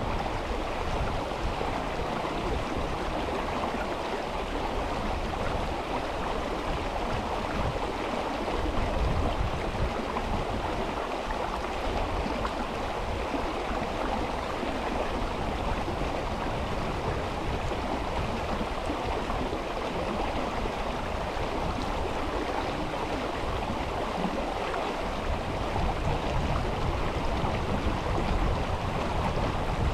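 Mountain river water rushing and flowing steadily, with uneven low rumbling underneath at times.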